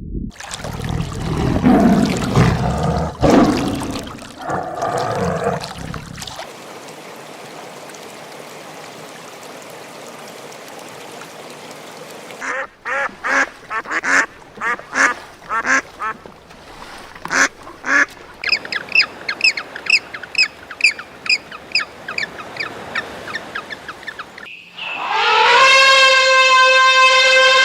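A series of different animal calls in turn: a run of short repeated calls, then rapid high chirping, then a loud held call near the end.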